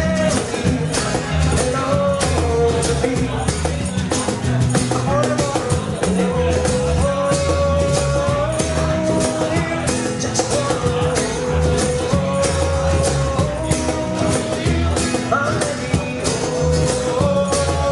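Live band playing a song on guitar, bass and cajon: a steady cajon beat under a bass line, with a melody of held notes moving stepwise over the top.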